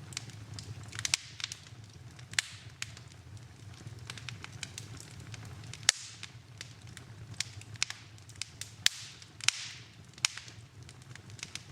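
Wood fire in a fireplace crackling, with irregular sharp pops and several louder snaps, and a couple of brief hisses.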